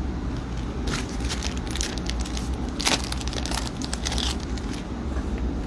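Thin plastic crinkling and crackling as trading cards are handled and sleeved, with a sharp crackle near the middle, over a steady low hum.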